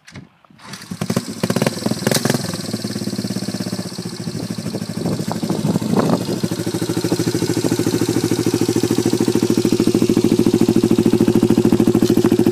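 1984 Honda CT110 Trail's single-cylinder four-stroke engine, breathing through a cheap aftermarket muffler, starts about a second in. It runs a little unevenly, rises briefly about six seconds in, then settles into a steady, evenly pulsing idle.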